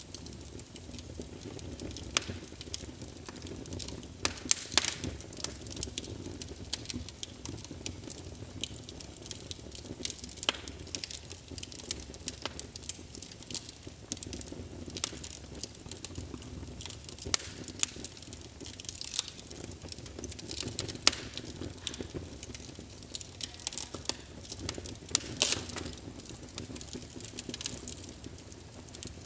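Wood fire burning in a fireplace, crackling with irregular sharp pops over a low steady rumble of flame.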